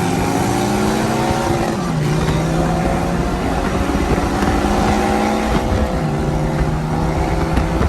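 A car engine held at high revs. Its pitch drops about two seconds in and climbs slightly again around six seconds.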